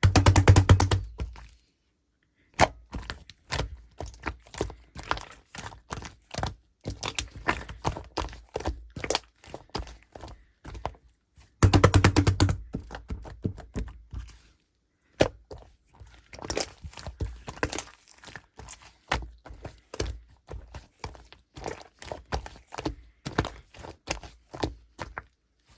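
Hands squeezing, pressing and poking a clear slime mixed with soft clay, giving irregular runs of crackling clicks and pops, with several denser bursts where it is worked harder.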